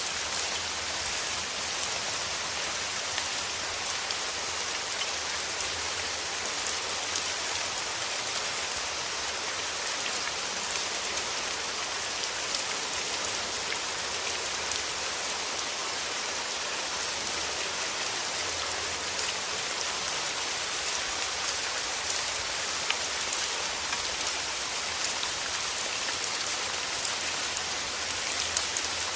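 Steady rain falling on foliage and ground, a dense even hiss with many individual drops pattering through it.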